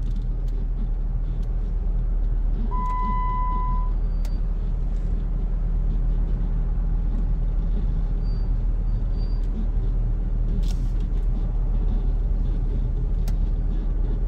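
Steady low rumble of a car engine running, with a single short electronic beep about three seconds in and a few faint clicks.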